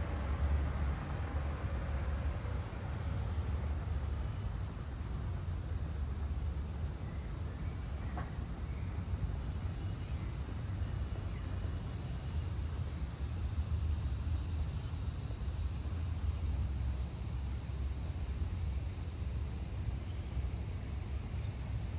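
Street ambience: a steady low rumble of traffic, with a few faint, high bird chirps scattered through it.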